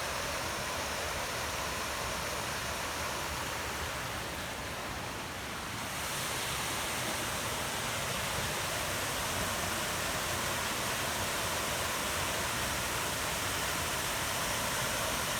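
Waterfall pouring into a pool: a steady rushing of falling water that dips slightly about four seconds in.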